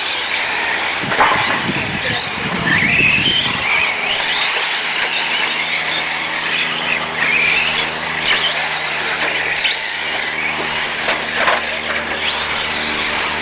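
Radio-controlled 4x4 trucks racing on a track: high motor whines rising and falling as the trucks speed up and slow down. A steady low hum runs underneath from about four seconds in.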